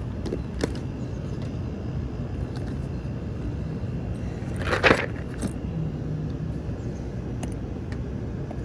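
Steady low rumble of a vehicle running, with a brief clatter about five seconds in.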